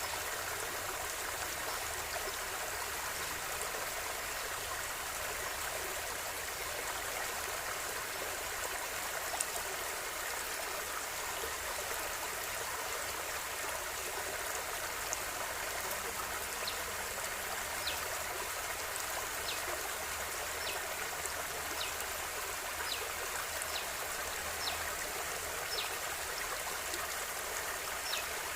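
River water flowing steadily with an even rushing sound. Scattered brief high-pitched ticks come through in the second half.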